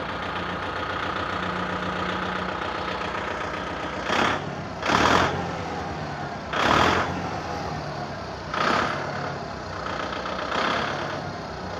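Kubota MU5501 tractor's diesel engine idling in neutral, blipped with about five short bursts of throttle, its exhaust passing through a clip-on fake turbo whistle fitted to the silencer, still on its unadjusted setting.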